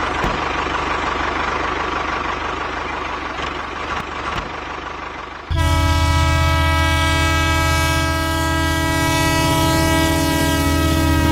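A steady running rumble for about five seconds, then a train horn sounding suddenly and holding one steady chord to the end.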